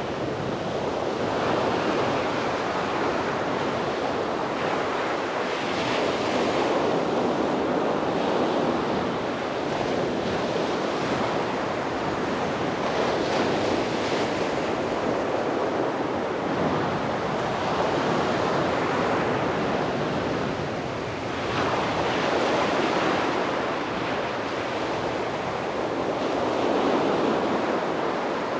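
Sea waves breaking and washing on the shore, a continuous surf that swells every few seconds, with some wind on the microphone.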